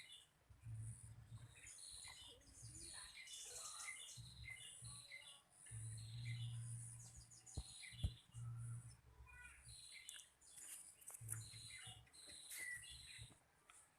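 Small songbirds chirping, many short high calls repeated throughout, with a low rumble that comes and goes underneath and one sharp click a little past the middle.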